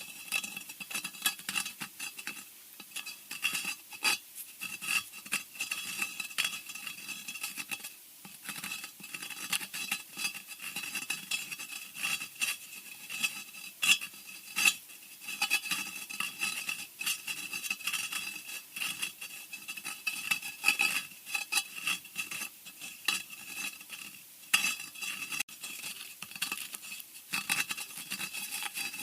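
Scratching sound effect: a continuous run of irregular, rapid scratches and scrapes, harsh and high-pitched, with louder strokes every second or so.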